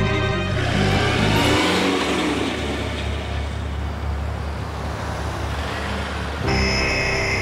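A car driving off along a wet road, its engine rising as it pulls away over a steady road noise. Background music stops about a second and a half in, and a steady high chord comes in near the end.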